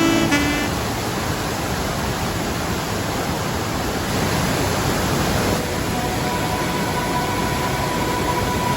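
Steady rush of a waterfall: water pouring and crashing in an even, unbroken hiss.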